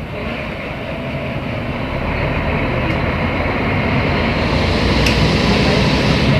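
Mercedes-Benz O500MA articulated bus's diesel engine running under way with a steady low hum and road noise, growing louder from about two seconds in.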